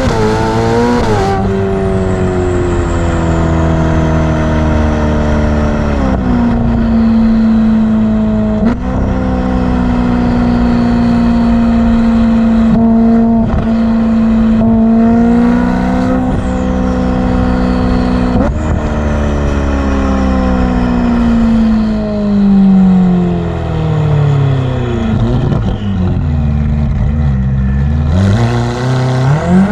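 Ferrari F8's twin-turbo V8 through a Novitec exhaust, driven on the road. The revs drop sharply at each gear change, hold steady for long stretches, and fall as the car slows in the second half. The engine revs rise quickly as it accelerates near the end.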